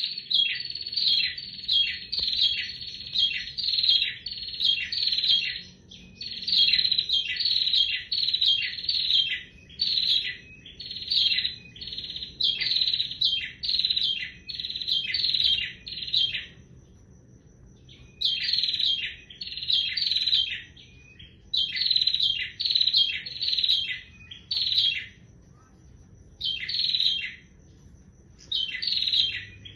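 A prinia singing vigorously: loud, rapid, repeated sharp high notes, about two a second, delivered in long bouts with short pauses between them.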